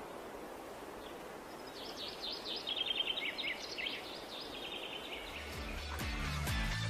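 Birds chirping and singing in quick twittering phrases, loudest in the middle, over a faint outdoor hiss. Near the end, music fades in with a bass line and a beat.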